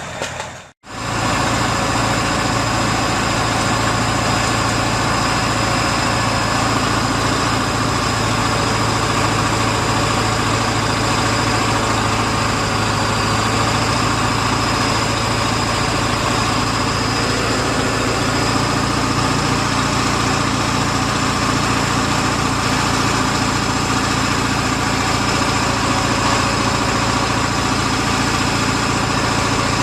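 A vehicle engine running steadily and evenly, cutting in abruptly after a brief gap about a second in.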